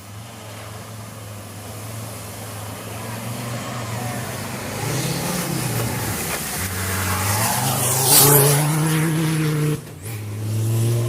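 A racing vehicle's engine approaching and revving through gear changes, growing louder to a peak about eight seconds in as it passes with a burst of hiss. The engine note drops away briefly near the end, then picks up again.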